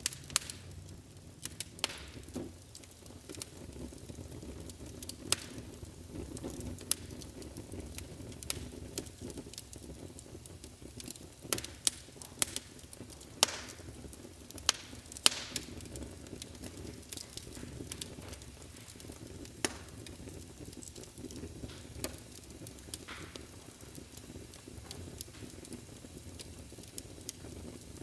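Wood fire burning in a fireplace: a steady low rumble of flames with sharp, irregular crackles and pops, several of the loudest coming close together about halfway through.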